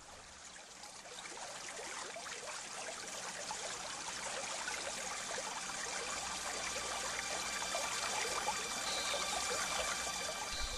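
Running water, a steady trickling stream, growing gradually louder over the first few seconds.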